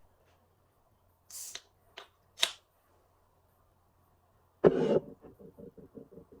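An aluminium can of Sprite Tea being opened: short hissing, clicking sounds as the tab is pulled and gas escapes. A few seconds later comes a louder rush, then quick rhythmic glugging at about five or six a second as the soda flows out of the can.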